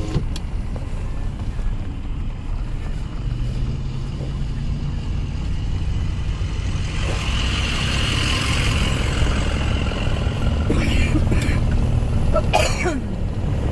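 Car driving on a rough road, heard from inside the cabin: a steady low rumble of engine and tyres. A hiss swells and fades about halfway through, and a few short knocks come near the end.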